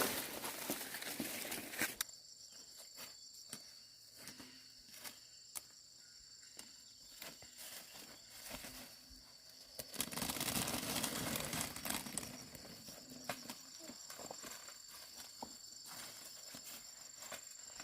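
Corn plants rustling as they are handled, loudest at the start and again about ten seconds in, with scattered clicks, over a steady high insect drone.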